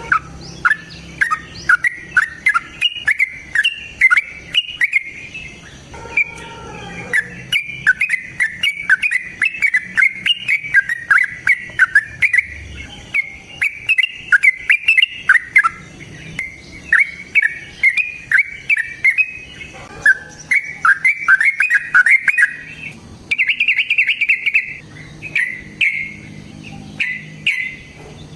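Lovebird singing its long chattering 'ngekek' song: a fast, unbroken run of sharp high chirps that breaks into shorter bursts with brief pauses near the end.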